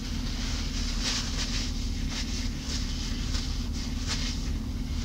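Close-miked chewing of a grilled chicken sandwich with lettuce, crisp little crunches coming irregularly over a steady low hum.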